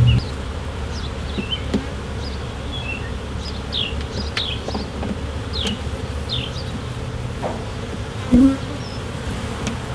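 Honeybees buzzing in a steady hum around an opened hive during a frame-by-frame inspection, with one short louder sound about eight seconds in.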